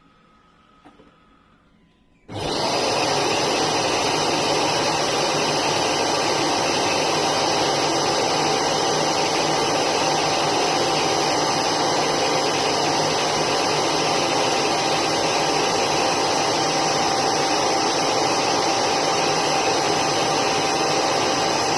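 Lefant M2 Plus robot vacuum's motor starting abruptly about two seconds in and running loud and steady with a constant whine, after a single faint click.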